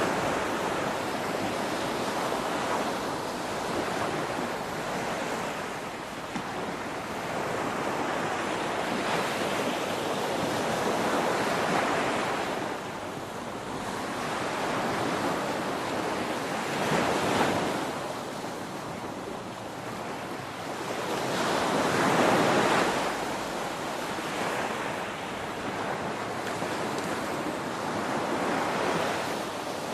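Ocean waves breaking on a shore, a steady wash of surf that swells into louder crashes every few seconds, with the strongest surges about 12, 17 and 22 seconds in.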